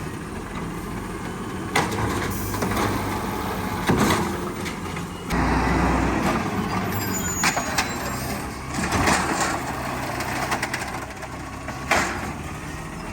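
Garbage truck engine running while recycling bins are lifted and dumped into the hopper, with several sharp clanks, a heavy thud and rattling as the bins are emptied.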